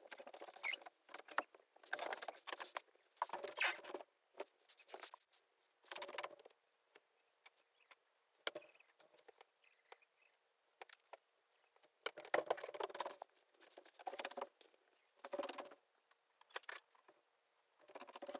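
Handling sounds: a dozen or so short, irregular bouts of rustling and light clinks as flowers are set one by one on the laid-out puja utensils.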